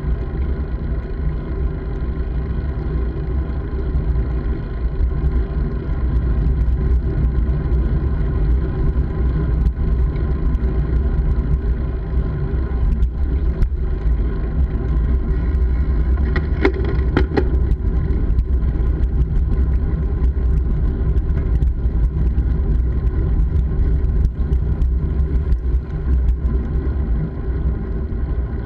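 Steady low rumble of wind and road noise on a camera moving with a bike, heaviest in the deep bass. About halfway through there is a brief higher-pitched sound.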